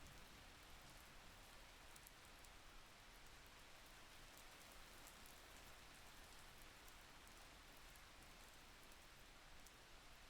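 Faint, steady rain with scattered soft drop ticks.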